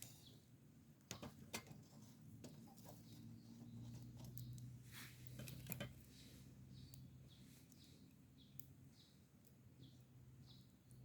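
Near silence: faint scattered clicks, a few faint short high chirps in the second half, and a low hum that swells in the middle.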